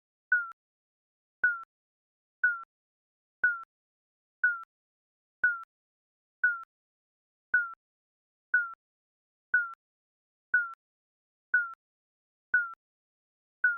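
Digital countdown timer beeping once a second: short electronic beeps, each with a sharp onset and a slight drop in pitch, with silence between them.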